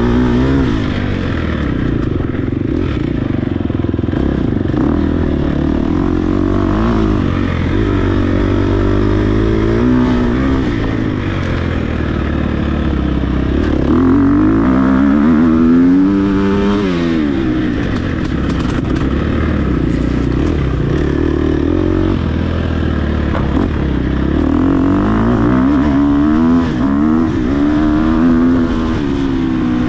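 Dirt bike engine revving up and down under throttle, its pitch rising and falling many times, with a long climb and drop about halfway through and a little clatter.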